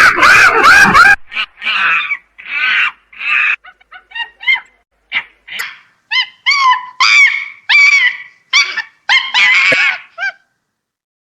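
A dog making a series of short, high yelps and whimpers, about two a second, after a loud rough noisy burst in the first second.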